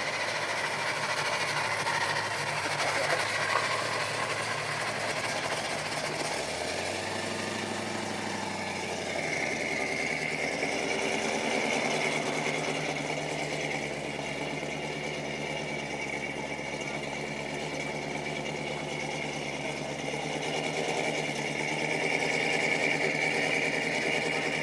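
Helicopter running: a steady engine drone with a high whine. The pitch shifts briefly about seven seconds in, and the whine grows stronger from about nine seconds in.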